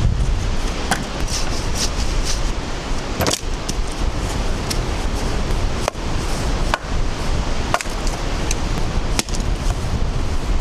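Strong wind buffeting the microphone, a loud, steady low rumble, with a handful of short knocks or clicks scattered through it.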